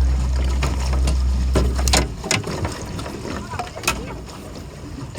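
Boat engine running with a steady low hum that cuts off about two seconds in, followed by a few scattered knocks and clicks on the boat.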